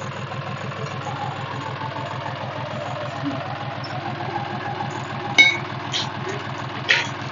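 John Deere 5310 tractor's diesel engine idling steadily with an even low beat, with a few short sharp knocks near the end.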